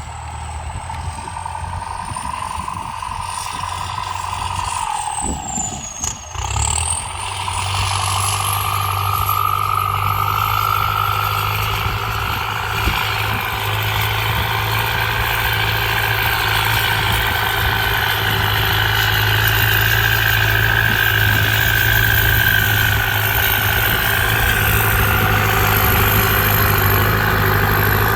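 Tractor engine running. About five to six seconds in its pitch dips briefly, then climbs back up and holds steady at higher revs, louder, with a high whine rising along with it.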